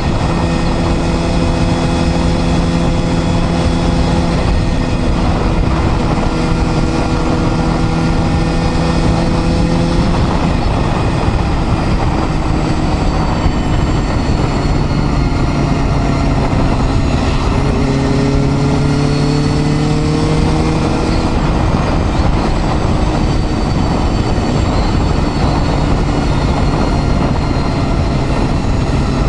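Honda Hornet 250's inline-four engine running at steady revs while riding. Its note changes pitch about ten seconds in and again for a few seconds near the middle.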